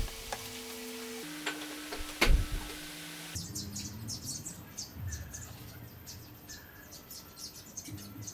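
Small birds chirping with rapid, short high-pitched notes, starting abruptly a few seconds in. Before that there are a few sharp knocks over a steady tone.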